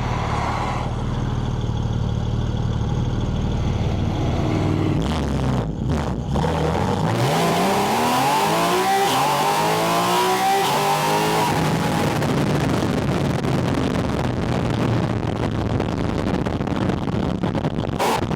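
Porsche 718 Spyder RS's 4.0-litre flat-six, heard at its air intake, running steadily. About seven seconds in it accelerates hard, its pitch rising for about four seconds with a loud intake rush, then it settles back to a steady cruise.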